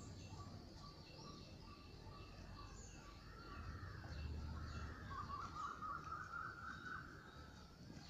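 Several birds calling and chirping, with one louder warbling call for about two seconds a little past the middle.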